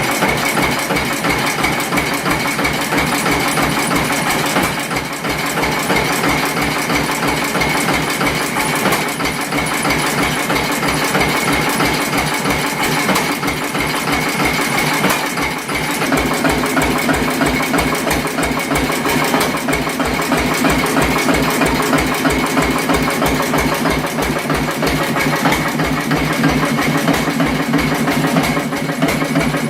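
Big old Fairbanks Morse stationary engine running with an even, steady beat of firing strokes. About halfway through the sound grows fuller and the low beats stronger.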